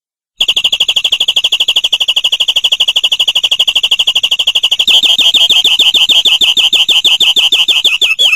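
Domestic canary singing a rapid trill of evenly repeated high notes, about fifteen a second, switching about five seconds in to a louder, slower run of notes.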